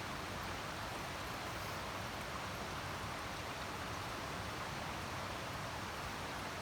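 Water running down through a wood-gas gasifier's char bed inside its steel drum, a steady trickling rush. The water was poured in as a leak test of the new welds.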